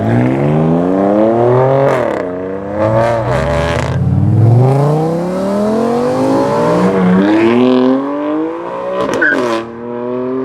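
Modified BMW M car accelerating hard. The engine note climbs and drops back at several quick upshifts, with sharp cracks at some of the shifts.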